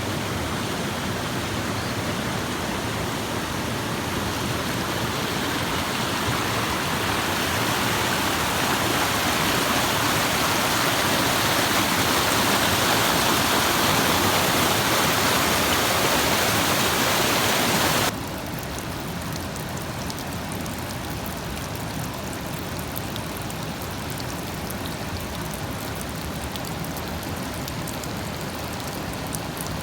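Forest stream rushing over rocks, a steady hiss of running water that slowly grows louder, then drops abruptly about two-thirds of the way through to a softer babble with faint trickles.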